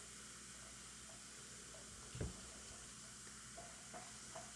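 Faint, steady fizzing of an effervescent tablet dissolving in a cup of coloured water under a layer of oil, with a few tiny pops near the end. A soft low thump about two seconds in.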